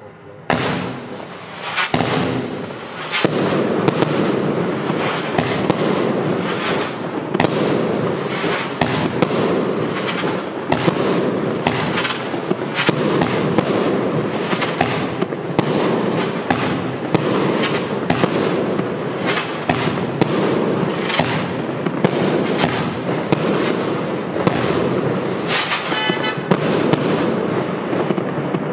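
Evolution Fireworks 'Golden Sky Twister' consumer firework going off: a dense, continuous stream of crackling and popping with many sharp reports, loud and unbroken for almost half a minute.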